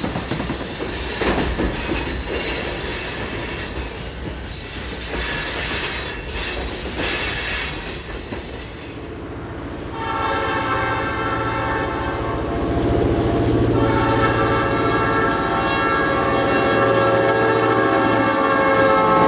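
Loaded lumber cars rolling over a steel trestle, with wheel clicks and rail noise. About nine seconds in, this gives way to EMD GP10 diesel locomotives approaching under power and sounding their air horn over a steady engine hum.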